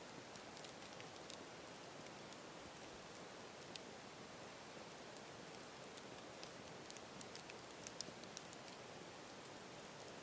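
Campfire burning with a faint steady hiss and scattered small crackles and pops, a few sharper pops coming close together about seven to eight seconds in.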